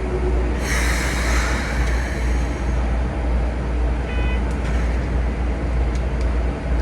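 Running noise inside the driver's cab of a Keikyu 2100-series train in heavy rain and wind: a steady low rumble throughout. A hiss of air sounds about a second in, and a short beep comes around four seconds in.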